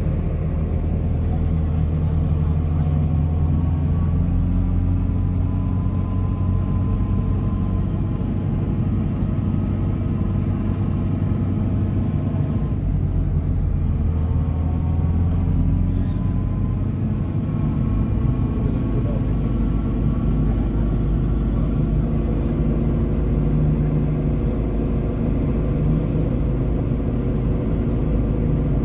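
Car engines running steadily at low speed, their notes slowly rising and falling, with the low engine note changing about two-thirds of the way through.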